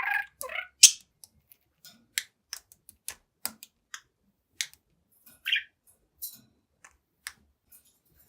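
Budgie making a string of sharp, irregular clicks and taps, with a short chirp at the start and another about five and a half seconds in.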